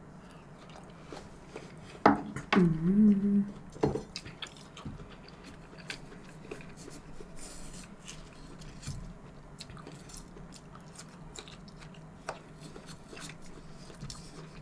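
Quiet chewing of fruit with small scattered clicks, and a brief hummed voice sound about two seconds in.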